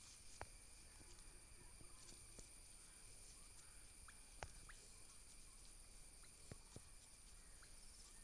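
Near silence: a faint steady high-pitched whine with scattered soft clicks, the clearest about four seconds in.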